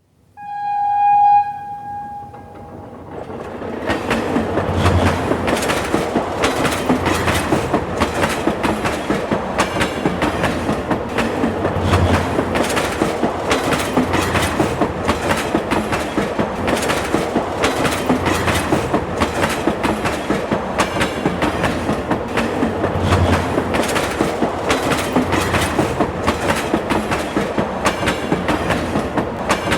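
A train sounds one short, steady horn blast, then runs past with its wheels clattering over the rail joints in a dense, even rhythm over a low rumble.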